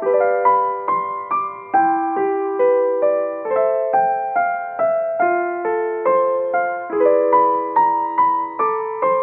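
Solo piano music: a gentle, steady run of notes, about two or three a second, each fading slowly.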